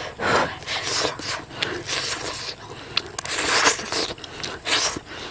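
Close-up chewing and mouth sounds of a person eating cooked fish: an irregular string of short, wet smacks and rubbing bursts, several a second.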